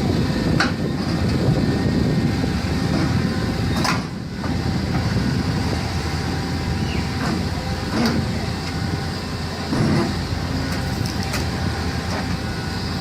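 A heavy vehicle's engine running with a steady low rumble, with a few short knocks or clanks.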